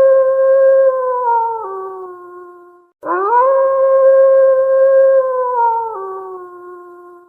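A wolf howling twice. The first howl is already under way, steps down in pitch and fades out about three seconds in. After a moment of silence the second rises quickly to a long held note, drops in pitch near the end and fades away.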